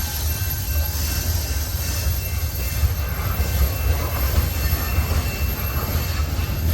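Long freight train's cars rolling slowly past, a steady rumble of wheels on rails with a faint high steady squeal from the wheels.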